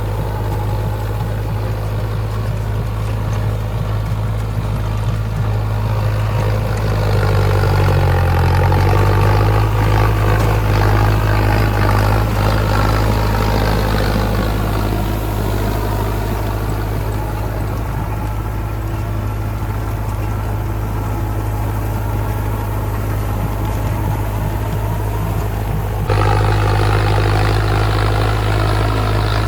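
Mahindra Arjun Novo 605 tractor's diesel engine running steadily with a low hum, swelling louder for a few seconds about a quarter of the way in. The sound changes abruptly near the end, as at a cut to another shot.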